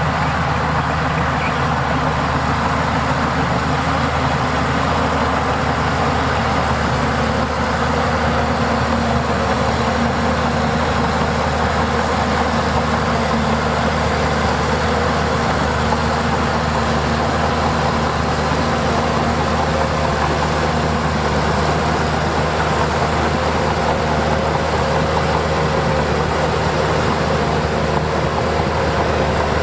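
The diesel engine of a piece of heavy earthmoving machinery runs at a steady drone, with no revving or sudden knocks.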